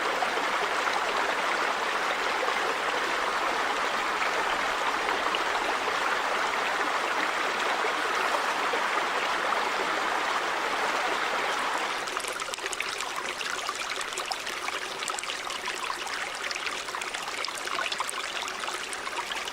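River water running steadily over rocks. About twelve seconds in it turns quieter and thinner, into a lighter trickle with small splashes.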